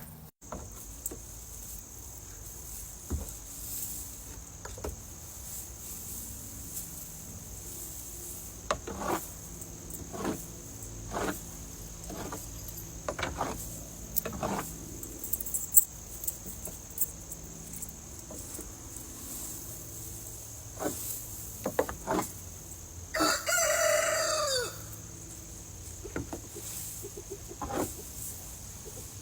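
Chickens clucking now and then, with a rooster crowing once, about 23 seconds in, for about a second and a half.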